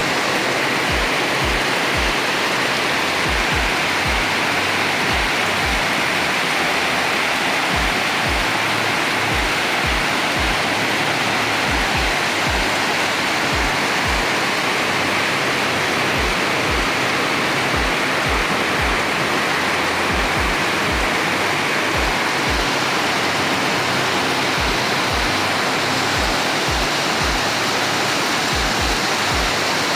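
Heavy rain falling in a steady, even downpour, with low thuds scattered irregularly through it.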